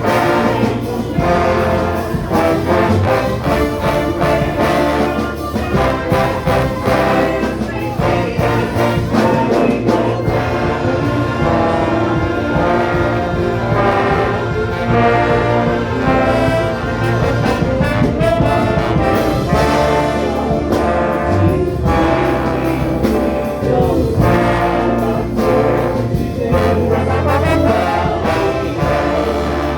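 An orchestra with a prominent brass section (trombones and trumpets) playing a hymn, with a choir faintly singing along.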